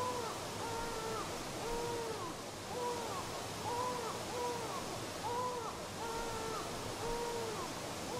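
A bird hooting, short arched calls repeated about twice a second, some pitched a little higher than others, over a steady hiss of flowing river water.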